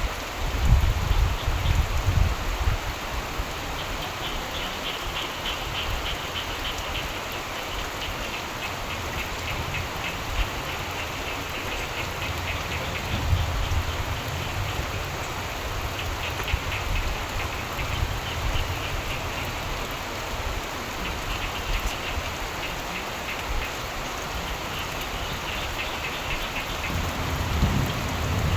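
Steady rain falling, with frogs calling in bouts of rapid pulsing trills. Low rumbles of thunder come at the start and again near the end.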